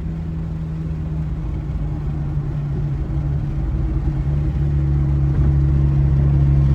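Nissan 240SX's KA24DE four-cylinder engine pulling while driving, steady in tone and growing gradually louder, with a change in pitch about four and a half seconds in.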